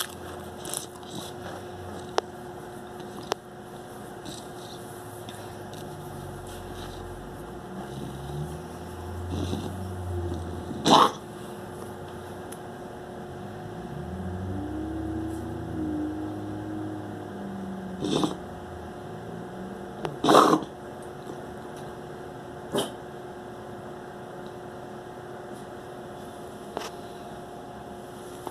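A dog coughing in a few sharp, loud hacks: one about eleven seconds in, then two close together around eighteen and twenty seconds (the second is the loudest), with fainter ones later. A steady hum runs behind them.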